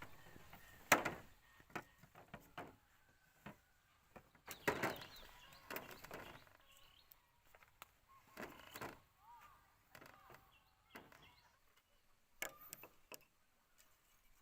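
Scattered light knocks and clicks, with a few faint bird chirps.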